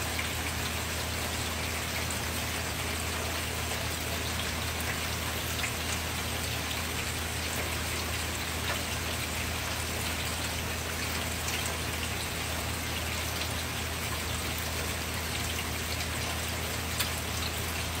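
Steady rain falling, with many scattered drops ticking on surfaces, over a steady low hum.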